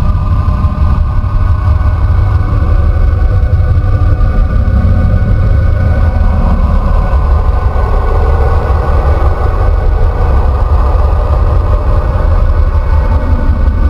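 Planetary radio emissions recorded by a spacecraft and converted into sound: a loud, steady deep rumble with droning tones above it that slowly waver.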